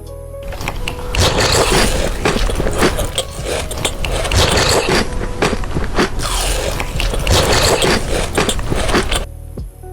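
Close-miked biting and chewing of chocolate: a dense, loud run of crunchy crackles and clicks. Background music drops out about half a second in and comes back near the end.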